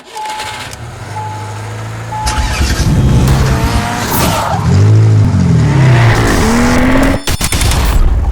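Three short beeps a second apart, like a race start signal, then race car engines revving and sweeping up and down in pitch as they pass, with tire squeal.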